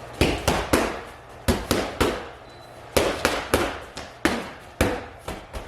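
Sharp smacks in quick runs of three, about a quarter second apart, with a pause of about a second between runs, then a few single smacks near the end.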